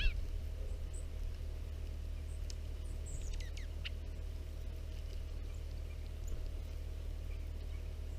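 Wild songbirds at a feeder giving short, high chirps and quick downward-sliding calls, several in the first four seconds and a few faint ones later. A steady low hum runs underneath.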